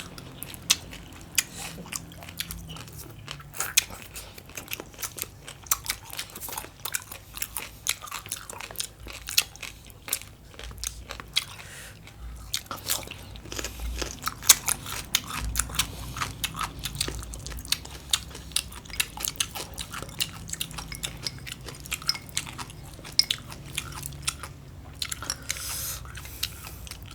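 A person chewing green papaya salad and cucumber close to the microphone: a dense run of crisp, wet crunches and mouth clicks.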